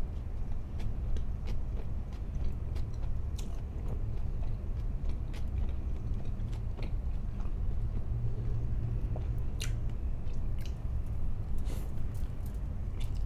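Close-miked chewing and biting of food, with irregular sharp crunchy clicks, over a low steady hum.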